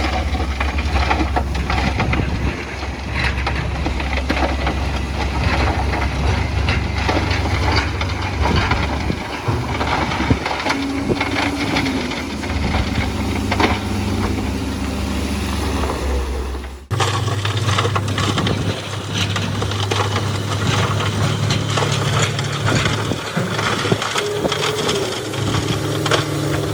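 Bulldozer's diesel engine running under load, with stone crunching and grating continuously as it is pushed. The sound breaks off for a moment about seventeen seconds in and picks up again with a steadier engine drone.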